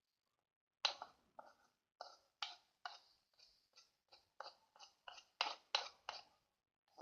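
Homemade detergent slime squelching and clicking as it is worked and scraped off a spoon, in a run of about fifteen short wet smacks, two or three a second.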